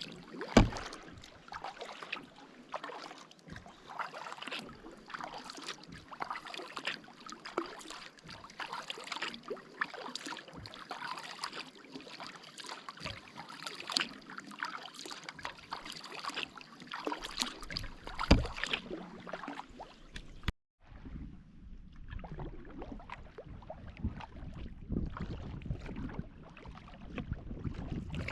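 Kayak paddling: the paddle blades dipping and splashing in the loch water with dripping in an irregular run of strokes, and a couple of sharper knocks, the loudest just after the start. About two-thirds of the way through the sound cuts out for a moment and comes back with a low rumble under the water sounds.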